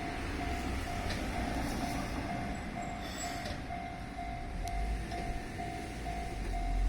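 Keihan 600 series electric train running on the Ishiyama-Sakamoto Line, its rumble growing louder near the end. A level-crossing bell rings steadily at about two strokes a second.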